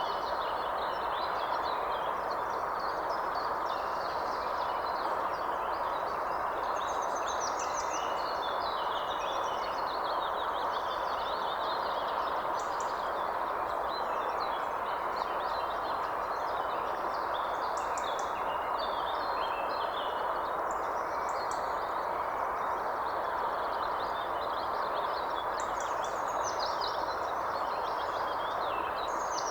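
Many small birds chirping and trilling over a steady, even rushing background noise.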